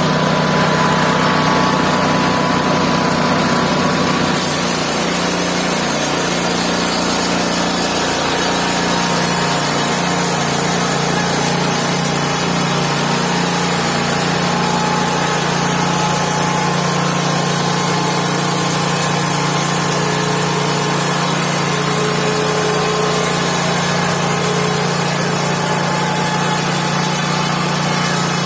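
Mobile band sawmill running steadily under its engine, with a high hiss joining about four seconds in as the band blade cuts through the log.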